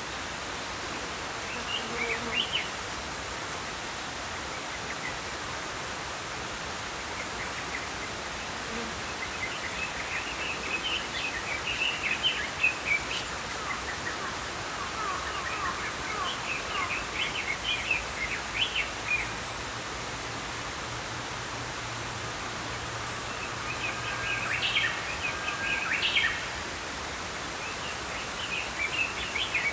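Small songbirds chirping in several bursts over the steady rush of a flowing stream.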